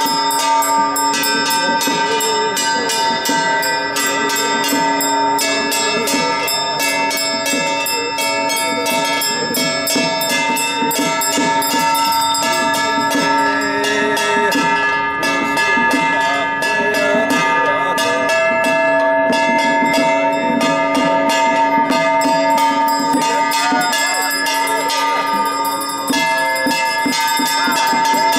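Temple procession music dominated by ringing metal percussion: sustained bell-like tones held throughout over a dense patter of small strikes, with a wavering melody line.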